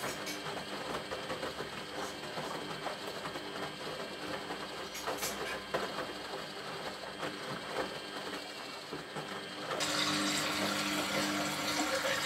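Beko WTB740E1W front-loading washing machine running quietly mid-wash, with light clicks and knocks from the tumbling drum. About ten seconds in, the drain pump starts with a steady hum and a hiss of water, as the machine begins draining water out.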